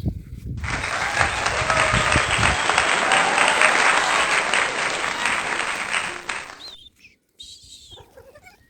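Applause, a dense clapping that starts suddenly about half a second in and cuts off about two seconds before the end.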